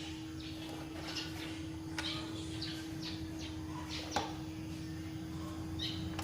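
Birds chirping in short, high calls over a steady low hum and a constant tone, with a few sharp clicks about two and four seconds in.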